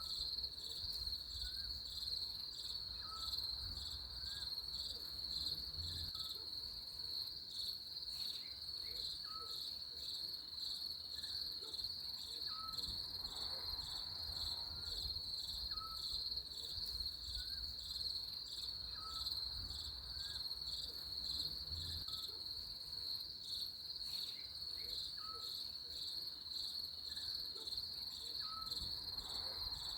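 Crickets trilling steadily in a high, unbroken chorus. Faint short chirps sound about once a second beneath it.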